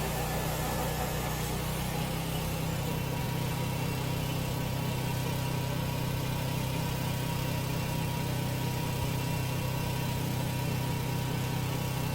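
An engine running steadily at constant speed, with an even low hum.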